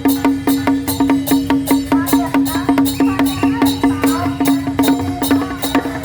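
Traditional percussion of a temple procession beating a fast, steady rhythm of sharp strikes, about four a second, over a sustained ringing tone.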